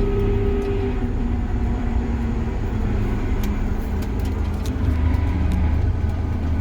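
Combine harvester's diesel engine running steadily on road travel, heard from inside the cab as a low, even hum. A higher steady whine stops about a second in.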